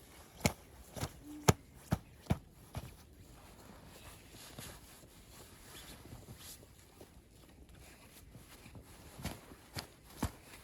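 Footsteps crunching in snow: a quick run of about six sharp steps in the first three seconds, then a few more near the end.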